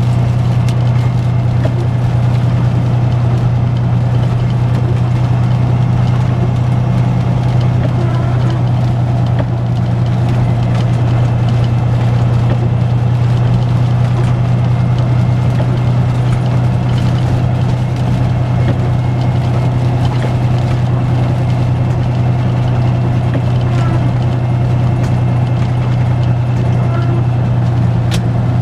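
Semi truck's diesel engine droning steadily, heard from inside the cab as the truck rolls along.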